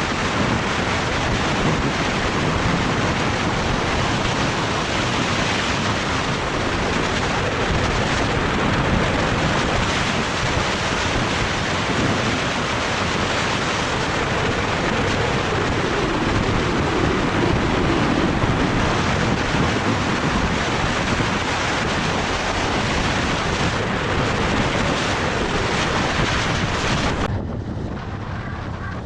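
Wind rushing hard over the microphone of a moving motorcycle: a loud, steady rush. About 27 seconds in it turns abruptly quieter and duller.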